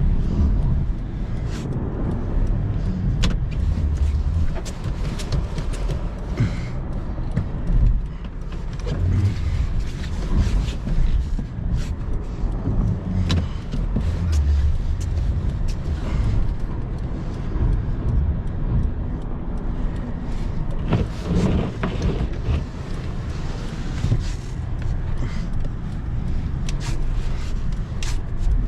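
Car driving on snowy roads, heard from inside the cabin: a steady low rumble of engine and tyres, with frequent small clicks and knocks throughout.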